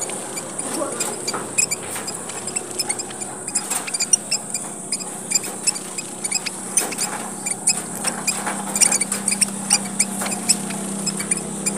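A group of small red finches (emprit merah papua) chattering busily: many short, high-pitched chirps overlapping throughout.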